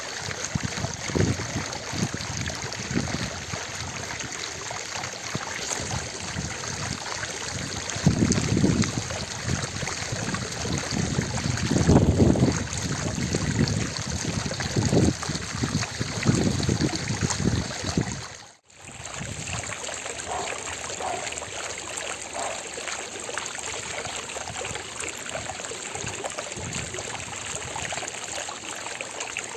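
Fountain water splashing and falling steadily into its basin. A few louder low surges come in the first half, and the sound drops out briefly about two-thirds through.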